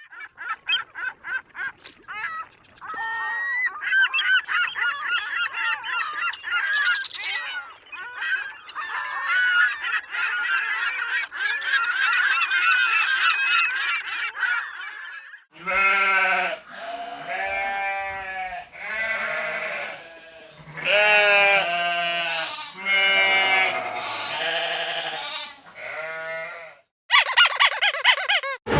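Animal calls played as a sound effect: first a dense flock of many overlapping calls, then a series of separate, drawn-out calls about a second each. A different, short noisy effect starts near the end.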